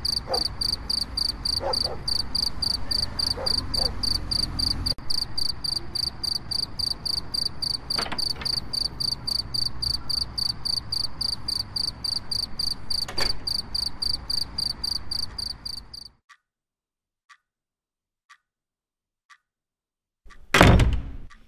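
Night ambience of crickets chirping steadily, about four chirps a second, with occasional frog croaks; it cuts off about 16 seconds in. Then a clock ticking about once a second, and a loud thump near the end.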